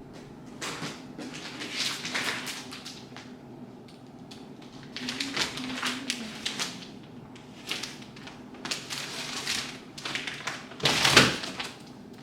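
Rustling and knocking as a swivel chair's parts and packaging are handled, in irregular bouts, with a heavier thump about eleven seconds in.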